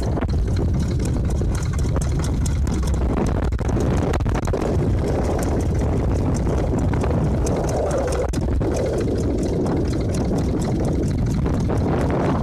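Strong wind buffeting the microphone: a steady, loud low rumble with a rushing hiss over it.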